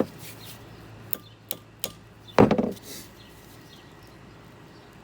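Hand tools and metal parts of a power steering rack clicking a few times, then one heavy knock about two and a half seconds in.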